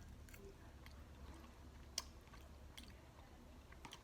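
Faint close-up chewing of grilled salmon, soft wet mouth clicks scattered throughout, with one sharper click about halfway.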